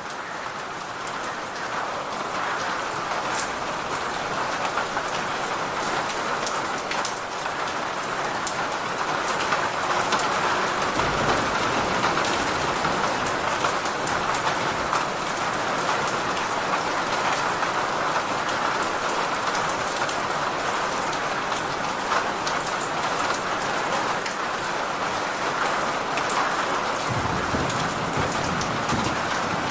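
Steady heavy rain falling on a surface, fading in over the first few seconds. A low rumble of distant thunder comes about ten seconds in and again near the end.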